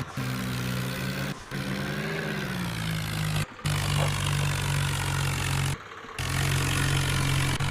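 Tractor engine running and revving, its pitch rising and falling over the first few seconds, then holding steady. The sound breaks off abruptly a few times for a fraction of a second.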